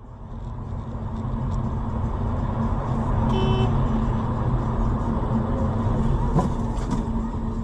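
A car's engine and road noise as it drives, steady and rumbling. A short pitched beep sounds a little over three seconds in, and two sharp knocks come near the end.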